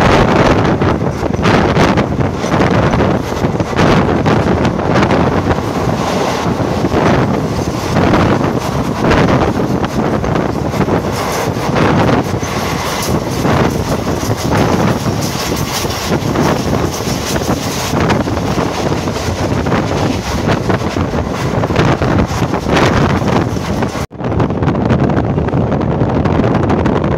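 Express passenger train running at speed, heard through an open carriage window: a loud, steady rush of wheel and running noise mixed with wind buffeting the microphone. It cuts out for an instant near the end, then carries on slightly duller.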